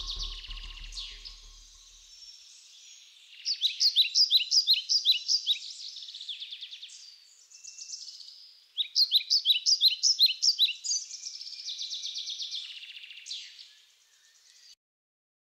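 Birdsong on a dubbed-in soundtrack: runs of rapid, repeated high chirps, loudest in two bursts about three and nine seconds in, cutting off abruptly to silence near the end.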